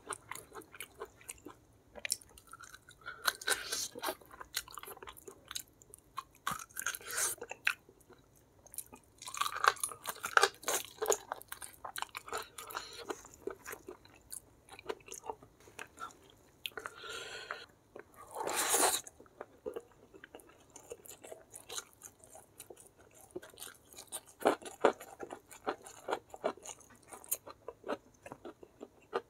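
A person chewing and crunching food close to the microphone, with irregular wet mouth clicks and crunches and a louder, longer burst about two-thirds of the way through.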